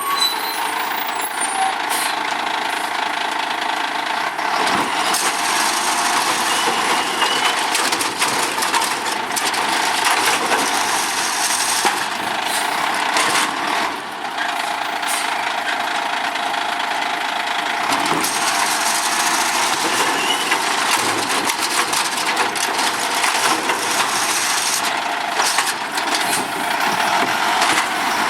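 Automated side-loader garbage truck running at close range, its engine and hydraulics going steadily, with repeated knocks and clatter.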